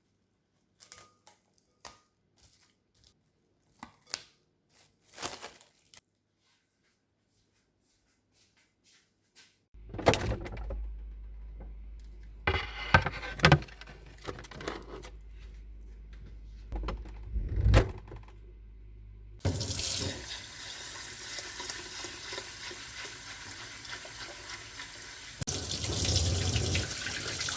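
Kitchen tap water running into a sink, starting about two-thirds of the way in and getting louder near the end. Before it come scattered light taps and clicks of kitchen handling, then a few louder clatters.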